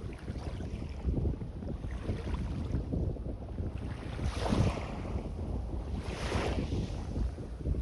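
Small waves washing onto a sandy beach, two surges of surf hiss about halfway through and again near the end, over steady wind buffeting the microphone.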